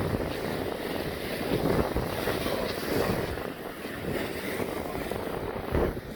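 Wind buffeting the microphone in gusts over the wash of big waves breaking.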